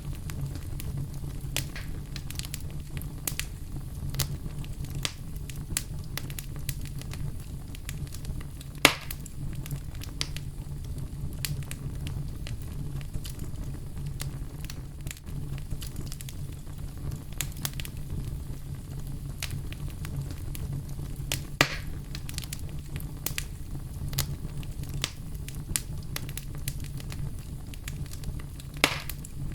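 Campfire burning: a steady low rumble of flames with scattered sharp crackles and pops from the burning wood, the loudest pop about nine seconds in.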